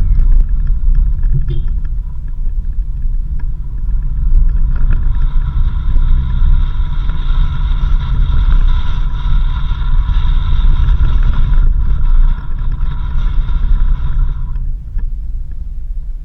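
Off-road vehicle driving on a dirt road: a steady low rumble. A steady high-pitched tone with overtones joins about four seconds in and stops shortly before the end.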